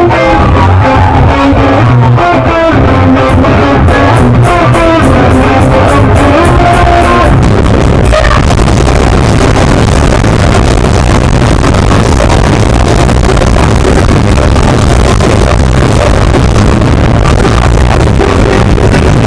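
Punk rock band playing live at full volume: a guitar riff with light, evenly spaced cymbal ticks, then the full band comes in about eight seconds in as a dense, distorted wall of guitars, bass and drums.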